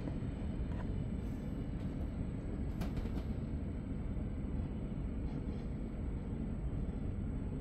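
Running noise inside a Zürich S-Bahn DPZ double-deck coach hauled by a Re 450, a steady low rumble of wheels on the rails, with a few faint clicks about three seconds in.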